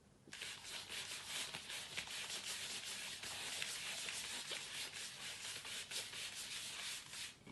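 A baby's hands scratching and rubbing across the surface of a play mat: a continuous scratchy rubbing made of many quick strokes, starting just after the beginning and stopping abruptly near the end.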